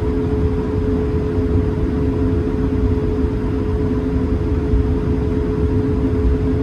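Cabin noise inside an Airbus A220-300 on the ground: its Pratt & Whitney geared turbofans at idle give a steady two-note hum over a continuous low rumble.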